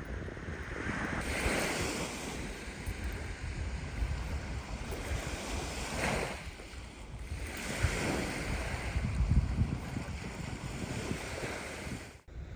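Wind buffeting the microphone with a steady low rumble, under rushes of noise that swell and fade every couple of seconds like surf. The sound cuts out briefly near the end.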